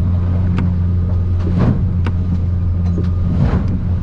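Outboard-powered aluminium boat heard from inside its cabin, the motor running with a steady low drone while the hull pounds through rough chop. There are sharp knocks and two splashy hits of water against the boat.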